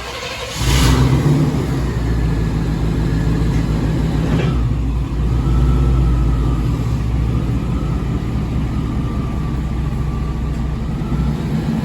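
Yamaha Phazer snowmobile engine running steadily after a brief rise in level about a second in, with a short blip of revs a few seconds later.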